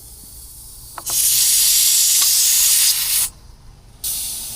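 Air chuck clicking onto a motorcycle tyre's valve stem, then compressed air hissing into the low tyre for about two seconds. After a short break the hiss starts again, quieter.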